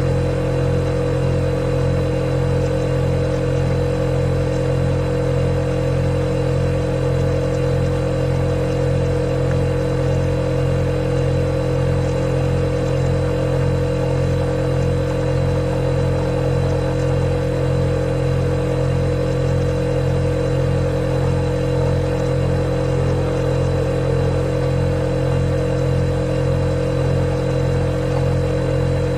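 Refrigerator running with a steady, unbroken hum of its compressor, a low drone with a higher tone above it and a faint hiss.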